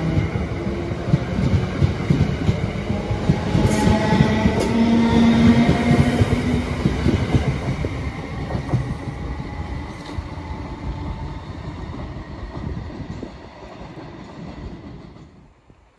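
Two coupled Class 318 and Class 320 electric multiple units moving away: motor whine and rail noise, loud at first and fading steadily over about fifteen seconds until almost gone.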